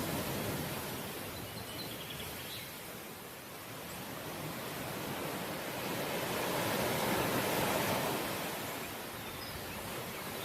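Sea waves washing onto the shore in a continuous rush, with one wave swelling up and breaking about two-thirds of the way through, then easing off near the end.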